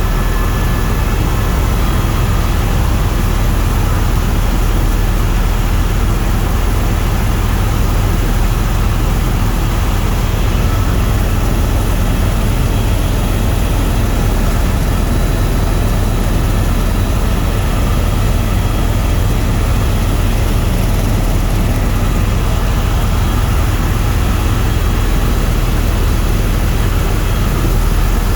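Tour helicopter in flight, heard from inside the cabin: the steady drone of the rotor and turbine engine, unchanging throughout.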